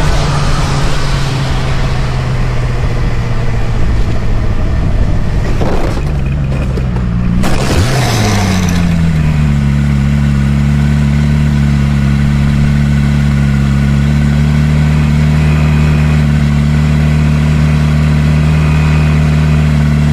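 A motor vehicle's engine running loudly, with two short rushes of noise about six and seven seconds in. About eight seconds in its pitch drops and then holds a steady note.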